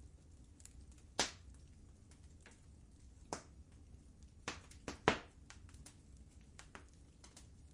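Fireplace fire crackling: scattered sharp pops and ticks, with the loudest pops about a second in and about five seconds in.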